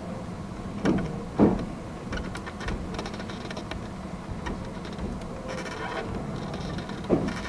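Inside the cab of a Fujikyu 8500-series electric train rolling slowly: a steady low hum, with a few sharp clunks from the wheels on the track, two about a second in and more near the end.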